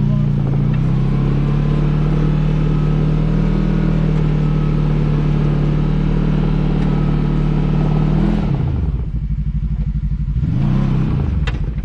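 Side-by-side UTV engine held at steady high revs under load while climbing a rock. About eight seconds in the throttle is let off and the revs drop, then it is blipped up and down once more near the end.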